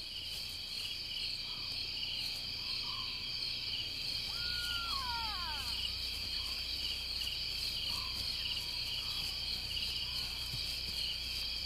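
Night-time insect chorus of crickets: a steady high pulsing trill. Faint short chirps recur, and about four seconds in a single call glides downward.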